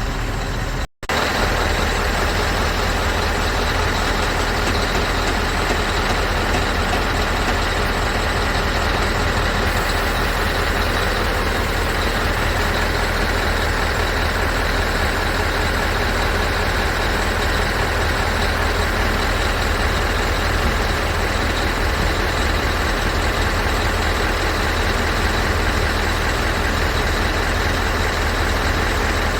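Scania R500 truck's V8 diesel engine idling steadily, with a momentary break about a second in.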